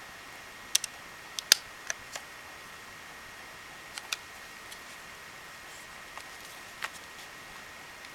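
Small sharp plastic clicks and taps from handling a camcorder and its accessories, about ten of them at irregular intervals, the loudest about one and a half seconds in, over a steady hiss.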